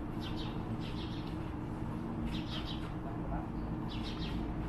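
A small bird chirping in short bursts of several quick high notes, repeating about every one to one and a half seconds, over a steady low background hum.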